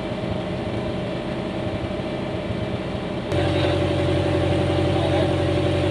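An engine idling steadily. A little over three seconds in it suddenly becomes louder, with a stronger, clearer hum.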